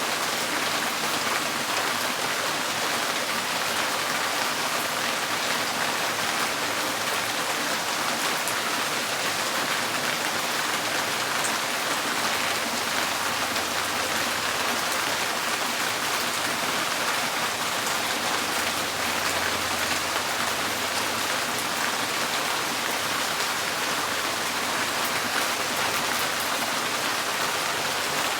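Steady rain drumming on a tin porch roof, a dense even patter with scattered sharper drop ticks.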